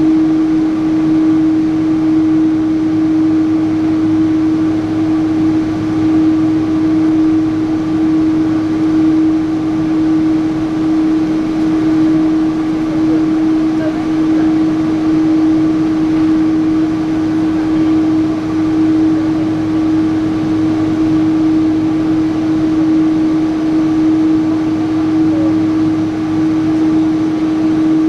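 Steady cabin drone inside a Boeing 777-300 on the ground before takeoff: an unbroken mechanical hum with one strong constant tone and a lower hum beneath it, level throughout.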